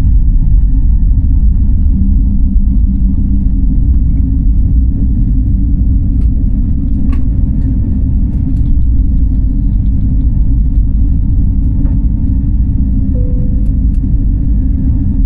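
Airliner cabin noise: a loud, steady low rumble from the jet engines and airframe, with a few faint clicks.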